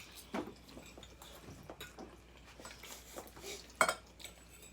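Forks clinking and scraping on dinner plates during a meal, a scatter of light clicks with a sharper clink near the end.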